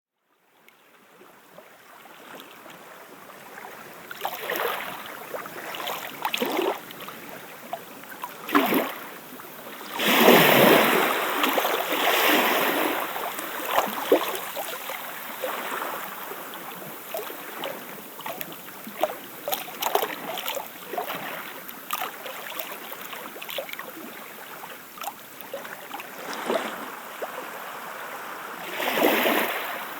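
Water lapping and splashing at a shoreline in irregular washes, with small splashes and clicks throughout and the biggest surge about ten seconds in.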